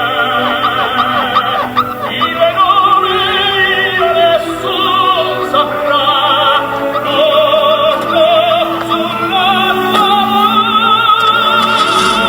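Operatic singing with a wide vibrato over classical orchestral music.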